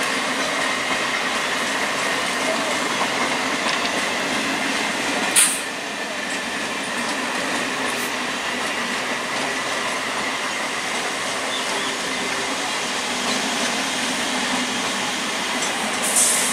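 Indian Railways EMU local train running past at speed: a steady rush of wheels on rail with a faint high whine. One sharp clack comes about five seconds in, and a smaller one a few seconds later.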